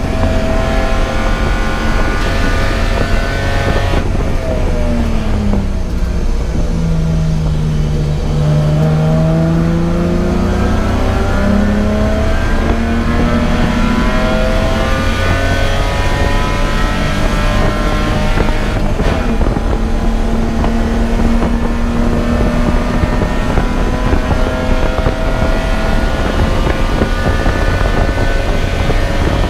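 Race car engine working hard on track. Its pitch drops sharply about four to six seconds in as the car slows and downshifts, then climbs steadily as it accelerates and holds at high revs, over a steady rush of wind and road noise.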